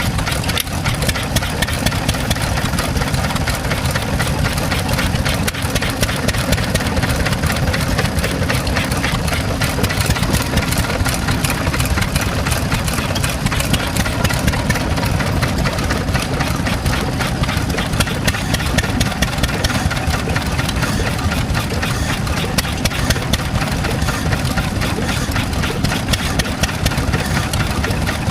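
An engine running steadily at idle with a fast, even beat of strokes.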